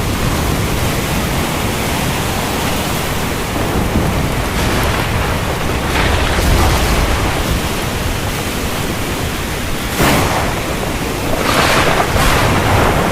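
Heavy rain falling steadily, with thunder rumbling low in the middle and a sudden crack of thunder about ten seconds in, followed by more rolling bursts of thunder.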